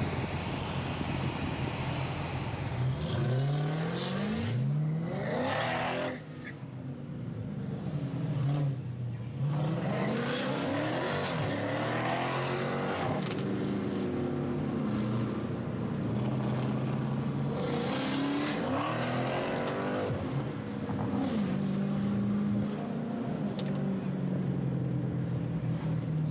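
V8 muscle-car engines accelerating again and again over a steady engine drone. The engine pitch sweeps up several times, with rushes of exhaust and tyre noise as cars pull past.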